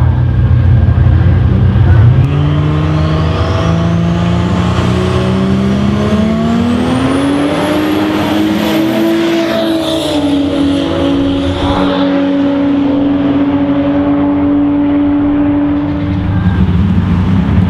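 Turbocharged Nissan RB30 straight-six of a Holden VL Calais drag car, loud and held at high revs at the start line, then launching, its note climbing in pitch. Another car's engine mixes in, and a high whine rises over the top. A steady engine note follows, and a different engine sound comes in near the end.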